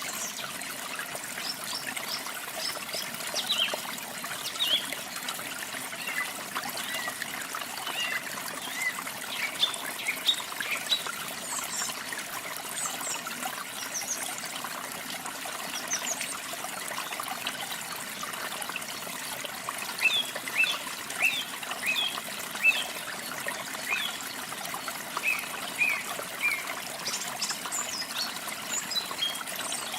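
Waterfall water splashing steadily, with songbirds chirping over it in scattered runs of short, quick high notes.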